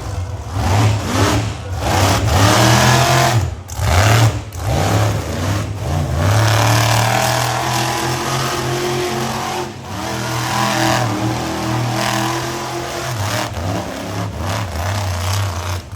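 Monster truck's supercharged V8 revving up and down under hard throttle, with several brief drops in level where the throttle comes off.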